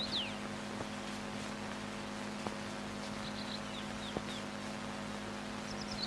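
Songbird chirps, quick short whistles sliding up and down, in brief bursts near the start, in the middle and near the end, over the steady low hum and hiss of an old film soundtrack, with a couple of faint clicks.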